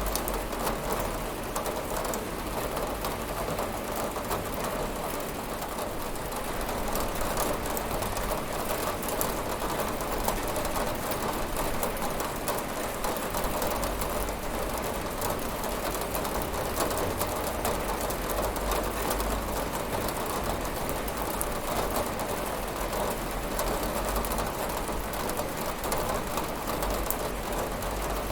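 Steady rain falling on a window, a constant hiss dotted with fine ticks of drops, over a low rumble.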